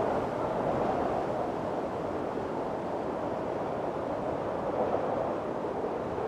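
Strong wind blowing in a storm, a steady rushing noise that swells and eases slowly, strongest just as it begins.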